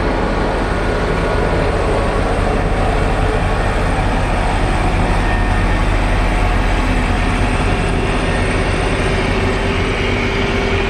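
Motor grader's heavy diesel engine running steadily, a constant low drone with a broad hiss over it.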